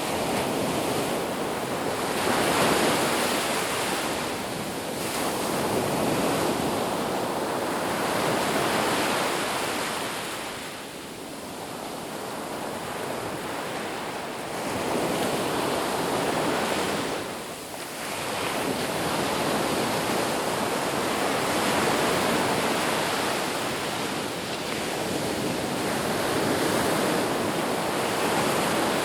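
Ocean surf washing onto a beach, a steady rush of noise that swells and ebbs every few seconds as waves break, with a short lull about two thirds of the way through.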